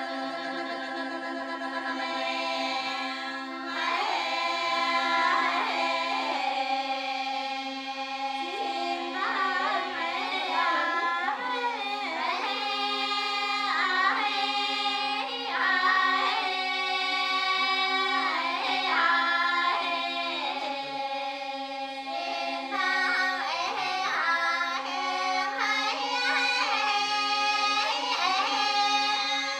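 Dong women's choir singing a polyphonic Grand Song. One low voice part holds a single steady drone note, while higher women's voices sing a wavering melody above it.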